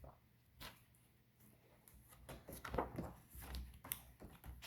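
Faint rustling and a few soft taps from a paperback picture book being handled, its pages turned.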